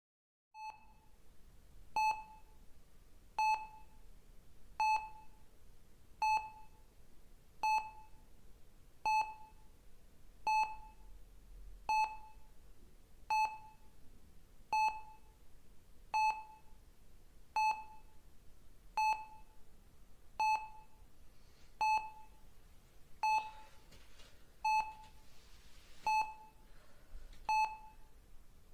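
Hospital patient monitor beeping steadily, one short beep on a single pitch about every second and a half, marking a patient's heartbeat.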